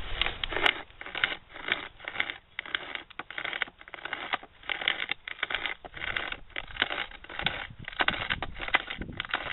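Chainmate carbon-steel pocket chain saw being pulled back and forth by its hand straps, its teeth rasping through a piece of wood in a steady rhythm of two or three strokes a second.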